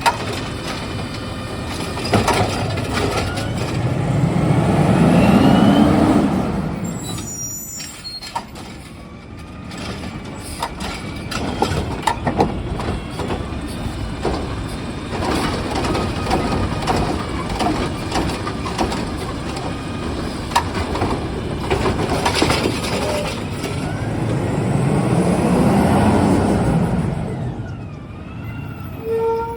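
Recycling truck working: its engine swells up and dies back twice, about five seconds in and again near the end, with many knocks and clatters between and the hiss of its air brakes.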